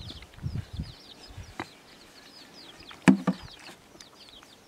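Birds cheeping in many short, quick falling chirps, with a few soft knocks. The loudest is a sharp knock about three seconds in, like a metal ladle striking the curry pot.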